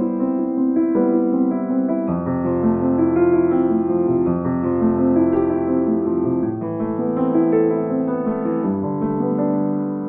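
Background music: soft piano playing sustained chords and a slow melody, with the chords changing every few seconds.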